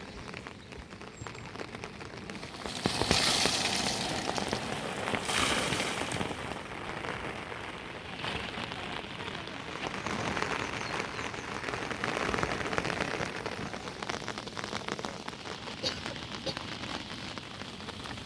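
Heavy rain falling steadily with a dense patter of drops, swelling louder twice, about three and five seconds in.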